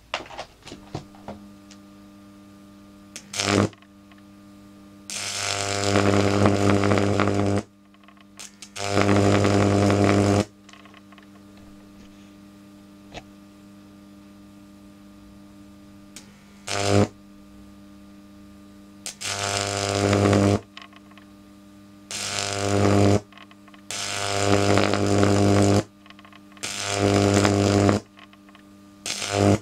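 Microwave oven transformer humming steadily, broken about eight times by loud harsh buzzing bursts of under a second to two and a half seconds each, typical of high-voltage arcs drawn off its secondary.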